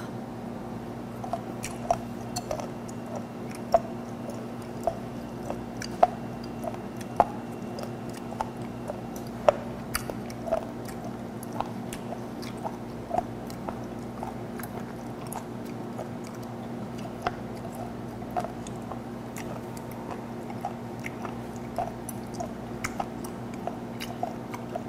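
A person chewing a piece of fermented skate (hongeo) nose, its tough cartilage giving sharp crunches about once a second that thin out about halfway through. A steady low hum runs underneath.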